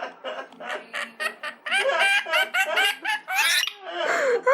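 Pet rainbow lorikeets chattering in a fast run of short, upward-hooking calls, several a second, with a harsh screech about three and a half seconds in.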